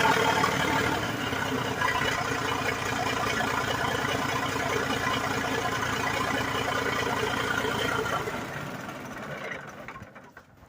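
Large bulldozer engine, freshly rebuilt, idling steadily; about eight seconds in it is shut off and runs down to a stop over the next couple of seconds.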